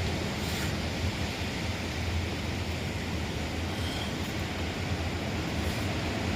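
Wind buffeting the microphone: a steady rushing rumble, heaviest in the low end.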